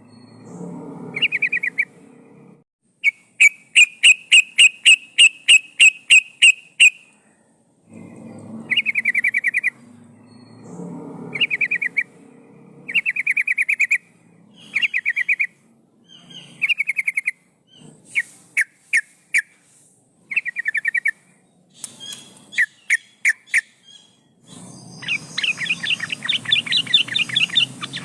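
Yellow-vented bulbul (trucukan) singing: short bubbly phrases repeated every second or two, a fast run of loud, evenly spaced notes a few seconds in, and a longer rapid chattering trill near the end.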